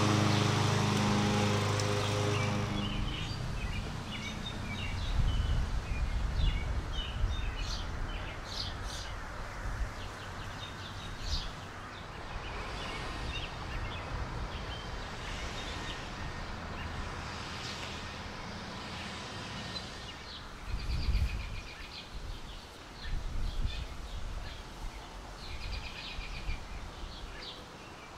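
Small birds chirping repeatedly over a low outdoor rumble; a motor's steady drone fades away over the first few seconds.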